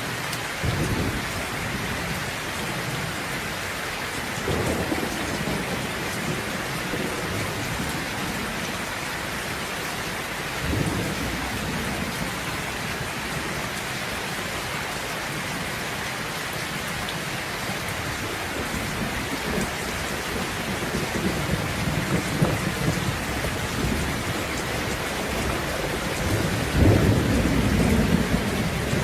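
Steady rain falling, with rolls of thunder rumbling under it: short rumbles about a second in and twice more in the first half, then a longer roll that builds and is loudest near the end.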